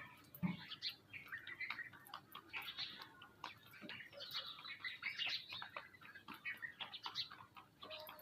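Many small birds chirping and twittering at once, short overlapping calls with no pause. There is a brief low thump about half a second in.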